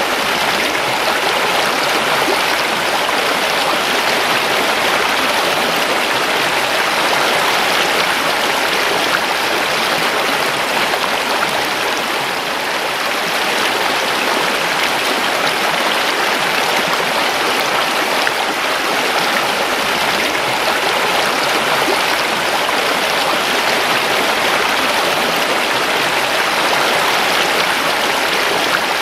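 River water rushing over rocks: a steady, loud, unbroken flow.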